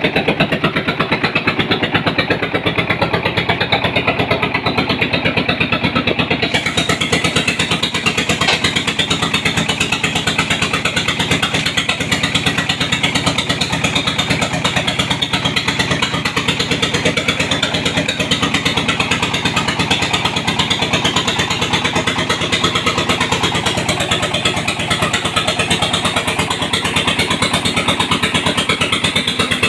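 Engine of a red-brick press machine running steadily, with a fast, even pulse.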